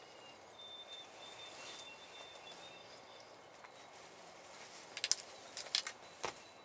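A small bird's faint, high, thin trill of short repeated notes in the first half, then a few sharp clicks and a low knock near the end.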